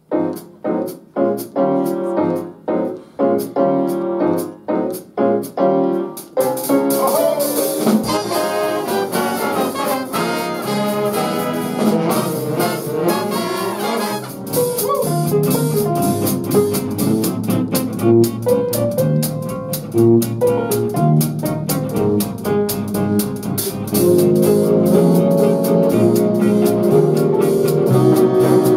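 Youth jazz band rehearsing, with brass and saxophones. It opens with a run of short, separated chords, then about six seconds in the full band plays on continuously, growing louder near the end.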